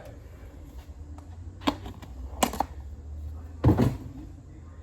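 Small tools and loose parts clacking as they are handled and set down in a toolbox drawer, over a low steady hum. There are a few sharp clacks, two close together about halfway, and a heavier knock near the end.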